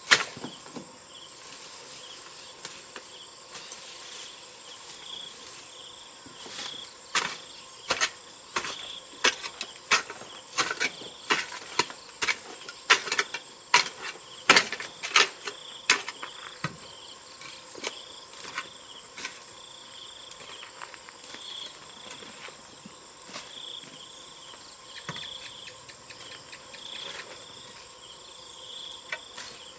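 Insects chirping steadily, with a run of sharp, irregular knocks and taps in the middle stretch, thinning out later.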